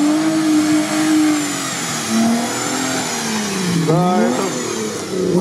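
Jeep Wrangler engine revving hard as it drives through deep swamp mud. The revs hold high at first, ease off around two seconds in, drop sharply just before four seconds and climb again as it pushes on past.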